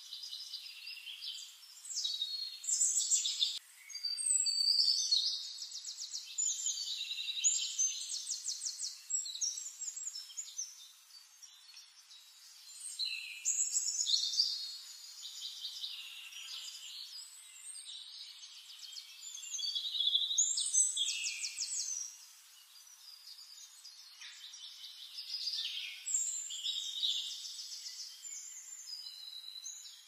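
Songbirds singing in a forest chorus: overlapping phrases of whistled notes and fast, evenly pulsed trills, swelling and fading every few seconds.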